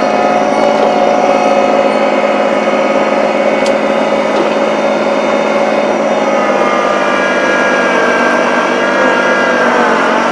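Small tractor's engine running steadily, pulling to bring a leaning tree down; its pitch rises slightly for the last few seconds.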